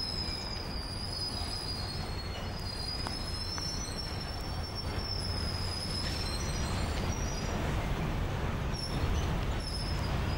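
Rolling-highway freight train, lorries riding on low flat wagons, rolling steadily past with a low rumble. Thin, high-pitched wheel squeals waver over the rumble.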